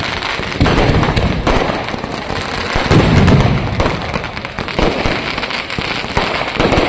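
Fireworks going off in a dense barrage of rapid cracks and bangs, with heavier booms about half a second in and again around three seconds in.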